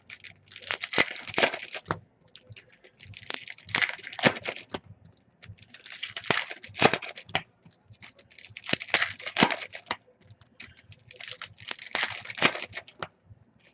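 Foil trading-card packs being torn open one after another, with crinkling wrappers. There are about five tearing bursts, roughly two to three seconds apart.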